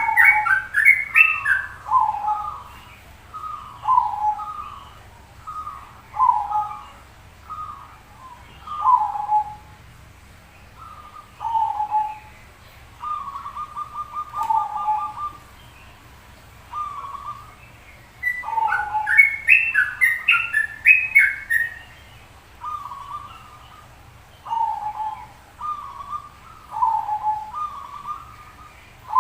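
Zebra doves (perkutut) cooing: short falling phrases repeated every second or two, one fast rolling run of notes, and two bursts of higher, quicker notes, near the start and about two-thirds of the way through.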